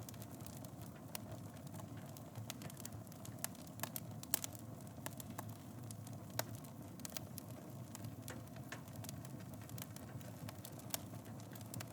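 Wood fire burning in a fireplace: a steady low rumble of flames with frequent irregular crackles and pops, a few sharper snaps between about three and seven seconds in.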